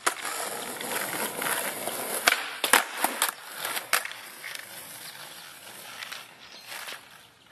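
Skateboard wheels rolling on pavement, with a quick series of sharp clacks from the board's tail and deck hitting the ground about two to four seconds in, as in a trick attempt. Quieter rolling follows.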